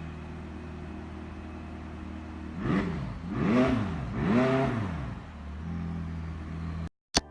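A sports car engine idling, then revved three times in quick throttle blips, each rising and falling in pitch, before settling back to idle. The sound cuts off suddenly near the end.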